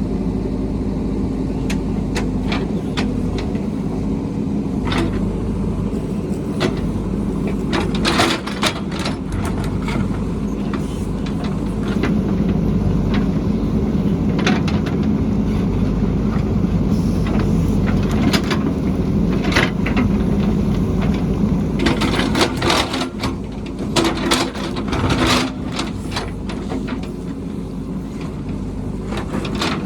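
Heavy construction machine's engine running steadily, with repeated sharp clanks and knocks, densest about eight seconds in and again from about 22 to 26 seconds.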